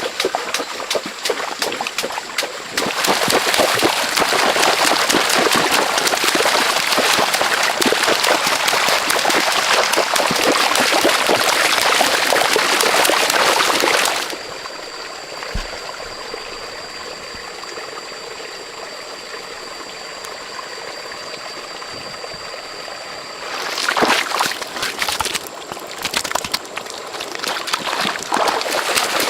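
Running water trickling and gurgling, loud for about the first half, then dropping to a quieter flow with a thin steady high tone behind it, and rising again near the end.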